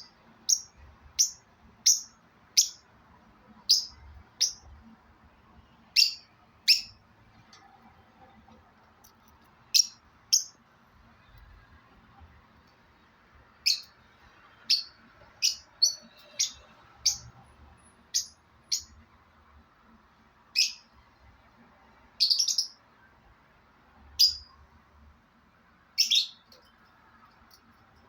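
Pet parrot giving short, sharp, high-pitched chirps over and over, about one a second, with a few brief pauses.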